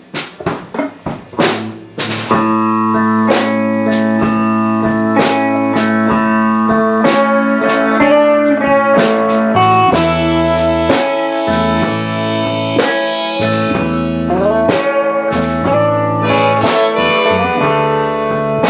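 Live rock band playing. Drums play alone for about two seconds, then guitars, bass and held chords come in together, with the drums continuing.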